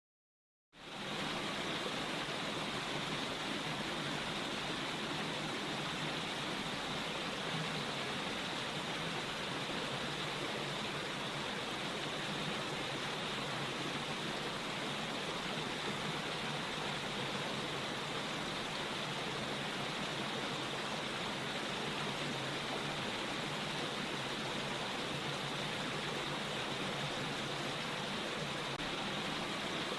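Steady rushing water noise, an even hiss without swells or bird calls, fading in just under a second in.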